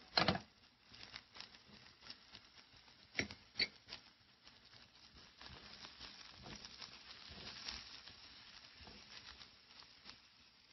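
Diced onion and chili peppers frying in oil in a pan, crackling and sizzling steadily while a spatula stirs them. There are a few sharper knocks near the start and about three seconds in.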